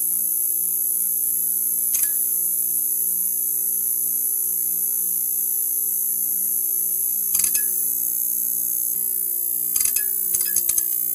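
Neon sign buzzing: a steady electrical hum under a high hiss. Short spells of crackling clicks come once about two seconds in, again past the halfway mark, and several times near the end.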